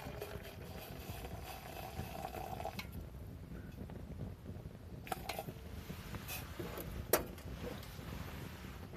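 Wood fire burning in a DANRO camp fireplace, with a low steady rumble and a few sharp crackles and pops about five to seven seconds in. A faint steady tone stops about three seconds in.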